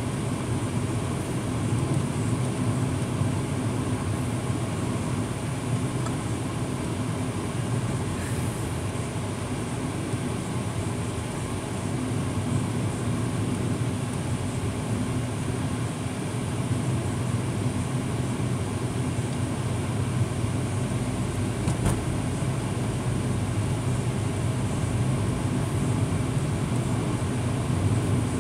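Truck engine running steadily with road noise, heard from inside the cab while driving, with a faint click about 22 seconds in.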